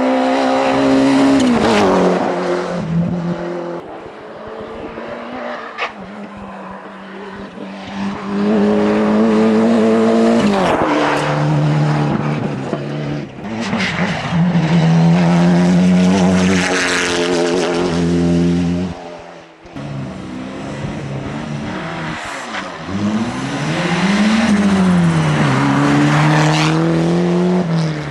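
Rally cars' engines revving hard as they pass, climbing in pitch and dropping back at each gear change, in several loud surges.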